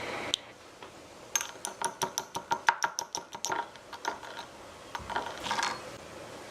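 A rapid run of small sharp clicks, about six a second for a couple of seconds, followed about a second later by a brief soft scrape.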